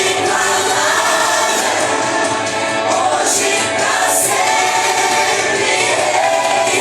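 A group of voices singing a Christian worship song together with accompanying music, continuous and steady in loudness.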